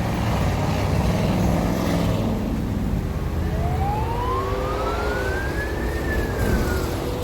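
Steady rumble of road traffic, with a single whine that starts about three and a half seconds in, climbs in pitch for over two seconds, then dips slightly and fades.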